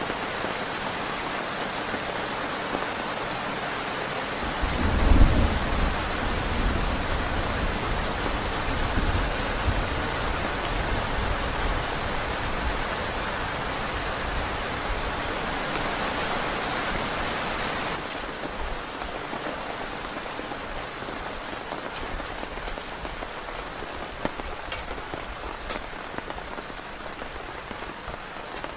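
Heavy rain falling steadily, with a roll of thunder rumbling about five seconds in and dying away over the next few seconds. About eighteen seconds in, the rain's hiss drops off suddenly to a lighter patter with separate drops striking.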